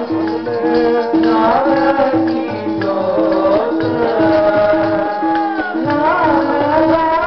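Sikh kirtan: a gurbani hymn sung over instrumental accompaniment, with a steady beat of about two strokes a second and jingling percussion.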